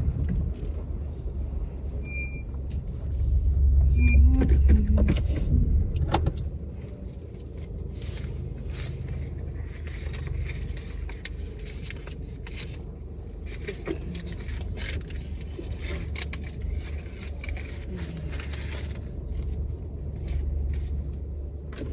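Steady low vehicle rumble that swells for a few seconds about three seconds in, with scattered clicks and rustles of handling on top.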